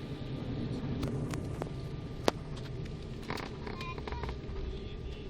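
Steady low rumble and hum inside the cabin of an Embraer 195 jet airliner. A single sharp click sounds a little over two seconds in.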